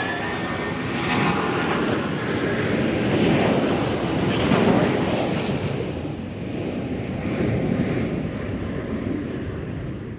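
Fixed-wing aircraft passing, a loud rushing engine noise that builds to a peak around the middle and then slowly eases off.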